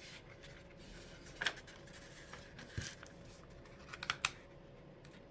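A sheet of paper being folded and creased by hand: faint, brief rustles and scrapes about 1.5 s and 3 s in, and a quick cluster of them about 4 s in.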